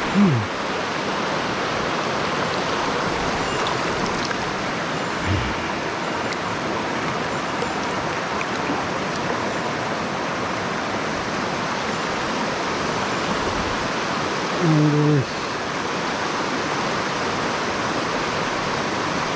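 Mountain stream rushing steadily over rocks. A few brief low voice-like murmurs break in: at the start, about five seconds in, and about fifteen seconds in.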